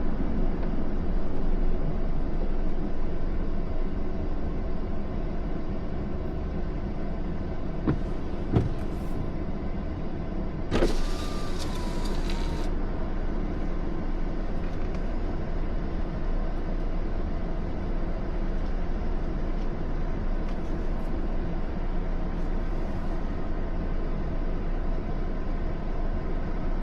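Steady low rumble of a car with its engine running, heard from inside the cabin. About eleven seconds in, a brief hiss lasts about two seconds.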